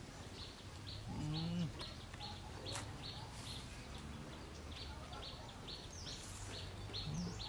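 A bird calling a short high note over and over at an even pace, two or three times a second, with a couple of quick falling chirps near the end. A brief low voice sound comes about a second in.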